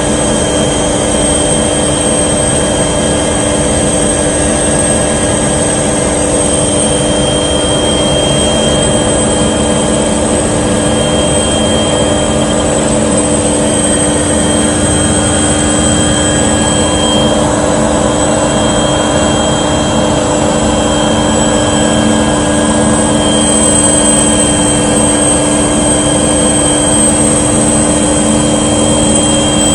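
Aircraft engine running steadily at cruise, heard from inside the cabin as a loud, unbroken drone with a few held tones.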